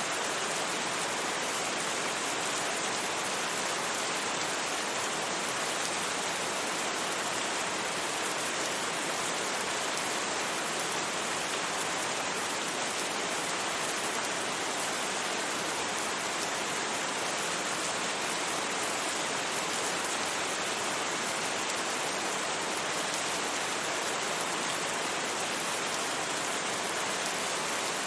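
Steady rain falling without a break, an even hiss that holds the same level throughout.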